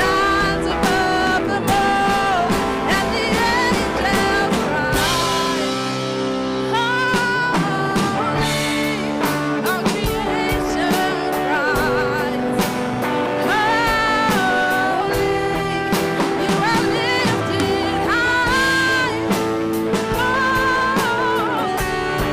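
Live church worship music with singing: a sung melody with vibrato over steady sustained band chords.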